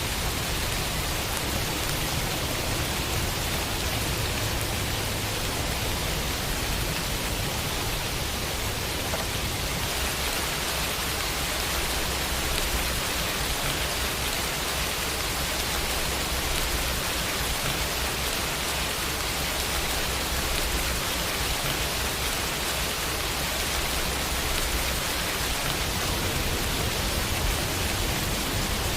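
Steady summer rain falling against a window, a continuous even hiss of drops with no distinct single impacts; it grows slightly brighter about a third of the way in.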